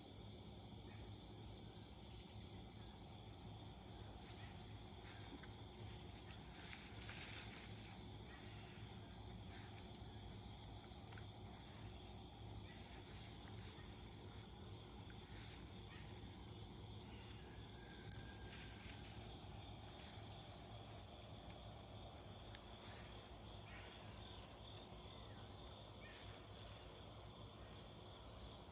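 Crickets chirping faintly in a steady, evenly spaced rhythm, with a continuous high insect trill behind them.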